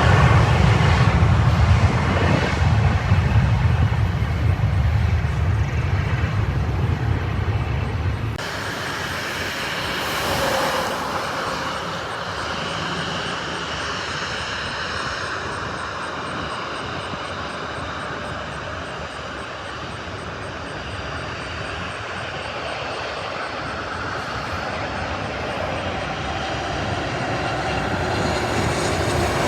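Jet airliner engines with a heavy low rumble that cuts off abruptly about eight seconds in, followed by another airliner's engine noise, fainter at first and growing louder toward the end.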